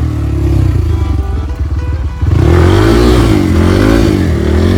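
Trail motorcycle engine running at low revs for about two seconds, then revved up and down repeatedly as the throttle is worked on and off.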